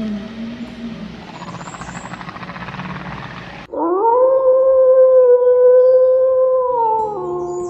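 A dog or wolf howl that starts suddenly about halfway through, rises, holds one long steady note and then drops in pitch near the end. Before it there is an even noise that cuts off abruptly.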